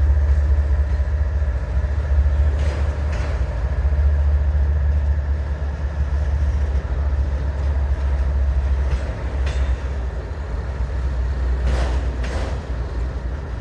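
Slow-moving CSX freight train passing, with a steady low diesel-locomotive rumble that eases slightly in the second half and a few short knocks from the rolling cars.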